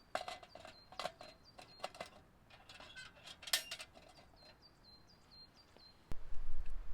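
Small birds calling with a series of short, high chirps, mixed with irregular sharp clicks and crunches. A low rumble starts suddenly near the end.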